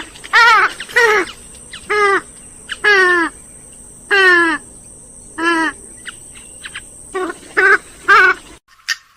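Grey-headed swamphen calling: a series of about nine loud, wavering calls roughly a second apart, several sliding down in pitch at the end. The calls cut off abruptly near the end.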